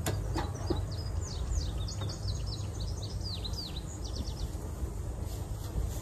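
A songbird singing a quick run of high, chirping, downward-sliding notes for about four seconds, then stopping, over a steady low rumble.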